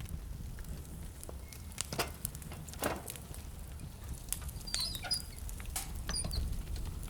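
Wood fire crackling in a fireplace, with scattered sharp pops over a steady low rumble. The two loudest pops come about two and three seconds in, and a few brief high-pitched squeaks sound a little past the middle.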